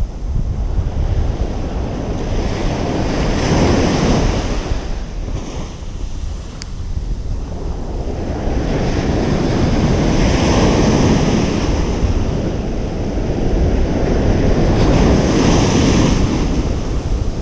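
Ocean surf breaking on a beach, the wash swelling and easing every five to six seconds. Wind rumbles on the microphone underneath.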